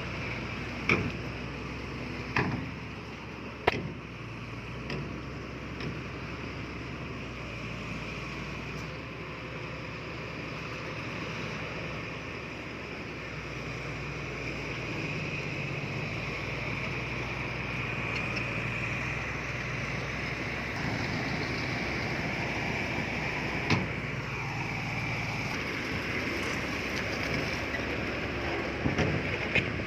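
Diesel engine of heavy earthmoving equipment running steadily under work, with a few sharp metallic clanks in the first few seconds and again near the end.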